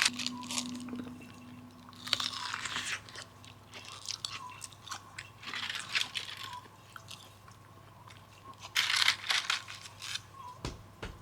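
Crunchy food being bitten and chewed: a few loud crunches a couple of seconds apart, with smaller crunching between them.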